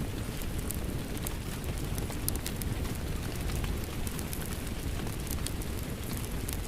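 Steady rain with a crackling wood fire: an even rushing noise under frequent small, irregular pops and crackles.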